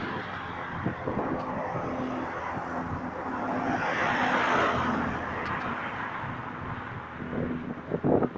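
A steady low droning hum, the kind presented as a strange sound from the sky, under outdoor traffic noise that swells and fades around the middle as a vehicle passes. There are a couple of short knocks near the end.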